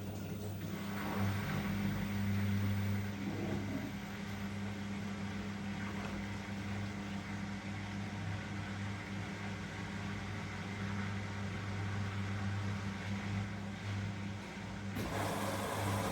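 Washing machine drain pump humming steadily as it pumps out the rinse water. Near the end a louder rushing noise joins it.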